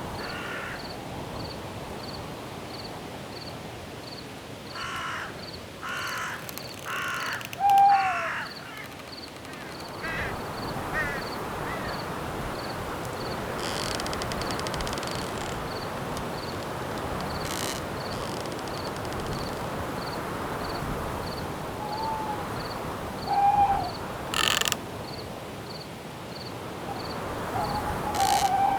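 Night forest ambience: wind in the trees as a steady rushing, with a faint even ticking of crickets about two or three times a second. Birds call over it: a run of four harsh calls a few seconds in, then short falling hoot-like calls, once early and a few more near the end.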